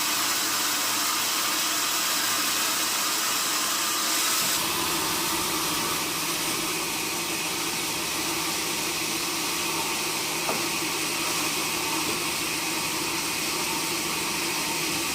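Steady noise of sawmill machinery running. About four and a half seconds in, the sound changes and a low steady hum joins.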